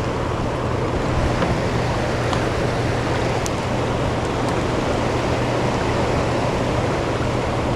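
Steady rush of fast-flowing river water, with a constant low hum underneath and a few faint ticks.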